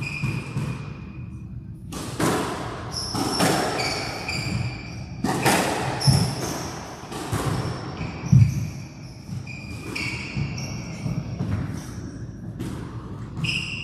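Squash rally: the ball cracking off rackets and thudding against the walls again and again, with shoes squeaking on the court floor in short high chirps between the hits.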